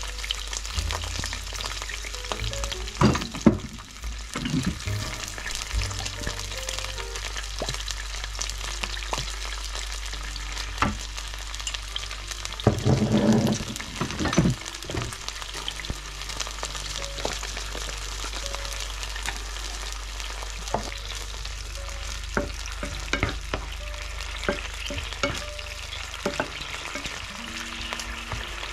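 Fiddlehead ferns sizzling steadily in hot oil in a frying pan. About halfway through the sizzle flares up louder as sauce goes into the pan, and a few sharp knocks and scrapes come from the cookware.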